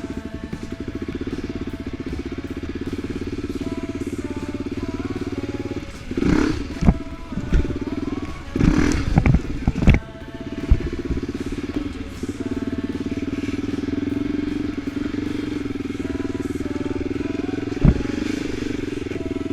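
Off-road vehicle engine running steadily, with a cluster of loud knocks and bangs about six seconds in and one more sharp knock near the end.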